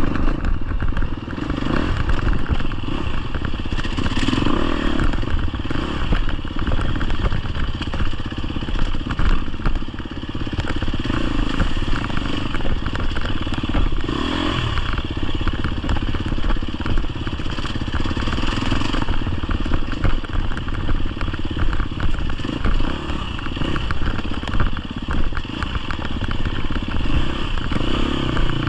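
GasGas EX250F dirt bike's 250cc four-stroke single-cylinder engine running while the bike is ridden off-road, its loudness rising and falling with the throttle.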